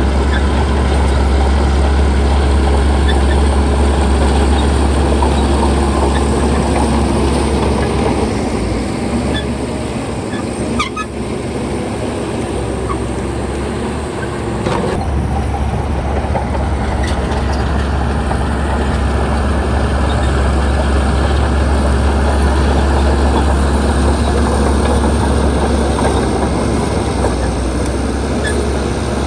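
Bulldozer's diesel engine running with a steady low drone that eases for a few seconds around the middle, then picks up again.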